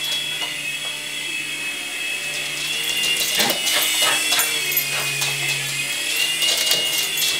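Protocol Tracer Jet 3.5-channel toy RC helicopter in flight: its small electric rotor motors give a steady high whine, the pitch wavering a little as the throttle and direction change.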